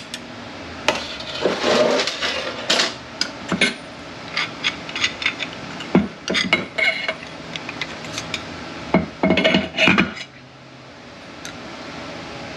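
Metal parts of a Mercedes 722.9 automatic transmission clinking and knocking as they are handled and set down on the bench: irregular sharp clinks, several close together about nine seconds in, then quieter near the end.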